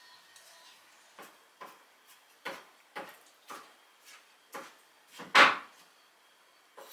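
A series of short, light knocks and taps, about two a second, with one louder, longer knock a little after five seconds in.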